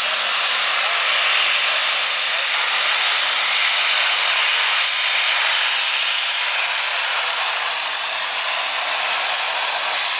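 Super stock pulling tractor's engine at full throttle, hauling the sled down the track: a loud, steady roar that holds without rising or falling.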